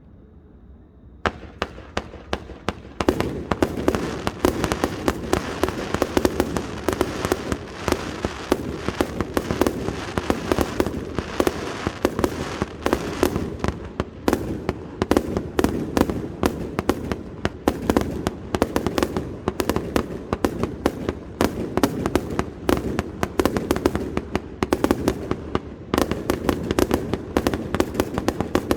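Fireworks display: after a brief lull, a dense run of rapid, sharp bangs and crackles starts about a second in and carries on without a break.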